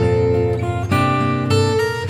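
Background music: strummed acoustic guitar chords, changing about every half second.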